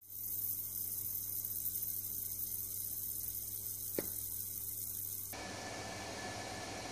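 Steady high hiss of compressed air during a cylinder-head pressure test, over a steady electrical hum. There is a single sharp click about four seconds in, and the hiss turns broader and duller about five seconds in.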